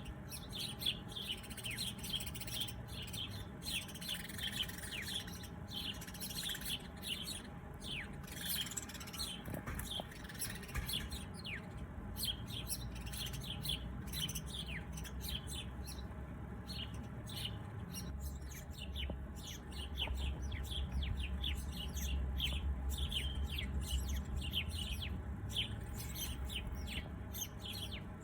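A chorus of small birds chirping, with many short, high chirps that each drop quickly in pitch, overlapping densely throughout. A low rumble lies underneath and grows louder in the second half.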